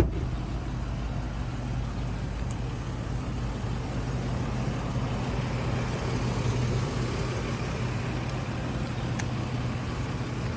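A motor vehicle engine running steadily at idle, a low even hum that holds without revving.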